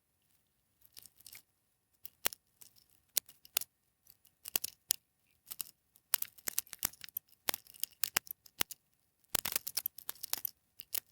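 Irregular sharp clicks, crackles and scraping from soldering and handling the tabs of an 18650 battery pack, with a denser run of crackles about nine seconds in.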